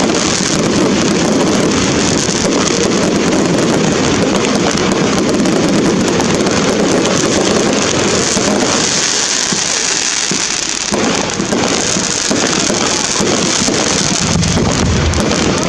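Fireworks display going off in a dense, continuous barrage of crackles and bangs, with the deeper rumble dropping away briefly a little past halfway.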